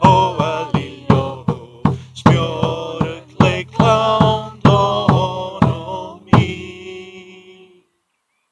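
Voices singing a Scottish Gaelic song over a steady drum beat, a stroke about every half second. A last drum stroke is followed by a held sung note that fades away, and the song ends in silence near the end.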